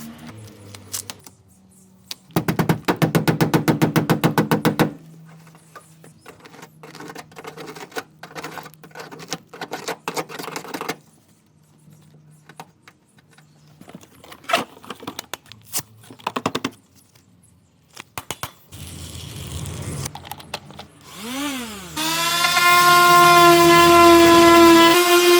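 Clicks and knocks of tools being handled, with a rapid rattling burst about two seconds in. Near the end a power tool spins up, rising in pitch, then runs at a loud, steady pitch.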